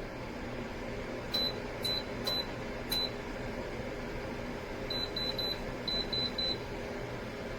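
Plug-in wall space heater's digital control beeping: about ten short, high-pitched beeps in irregular groups, four in the first few seconds and then two quick runs of three, over the heater's steady low running hum.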